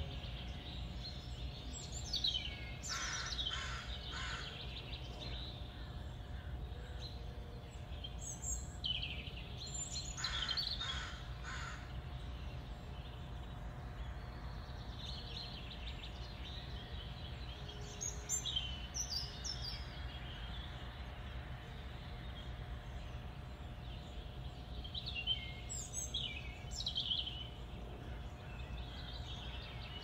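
Wild birds calling in four short clusters of sharp, repeated calls, over a steady low background rumble.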